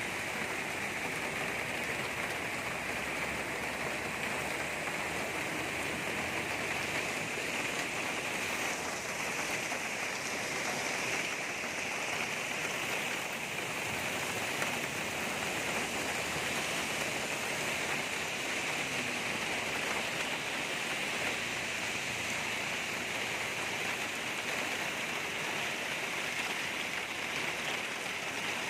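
Steady rain falling, an even hiss of drops without pause.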